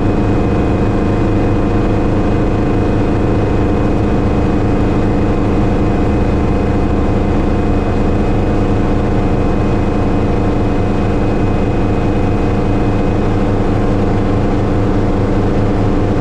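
Hughes 269C (Schweizer 300C) light helicopter's piston engine and rotor running steadily, a dense unchanging drone with no rise or fall in speed.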